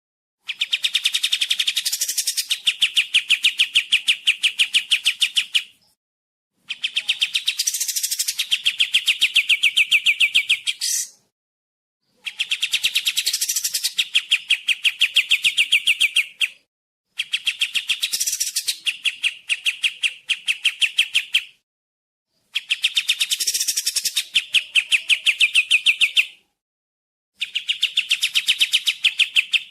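Kapas tembak songbird singing: repeated bouts of about five seconds, each a rapid, evenly paced series of high, clear notes, separated by short pauses of about a second.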